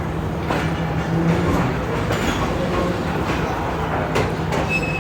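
Train moving through a railway station: a steady low hum with the clacks and knocks of wheels over the rail joints at uneven intervals.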